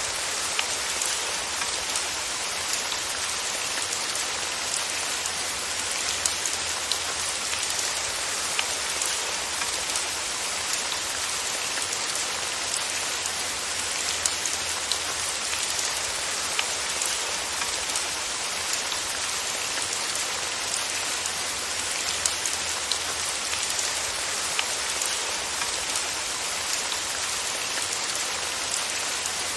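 Steady rain falling evenly, a constant hiss with individual drops ticking sharply here and there.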